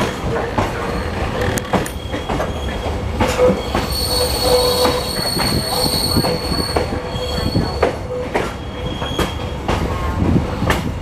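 Train running on rails, with a rumble and frequent sharp clacks of the wheels over the track. A high, thin wheel squeal sounds from about three and a half to seven seconds in.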